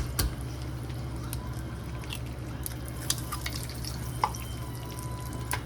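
Eggs frying in hot bacon grease in a pan: scattered sharp pops and crackles over a steady low hum.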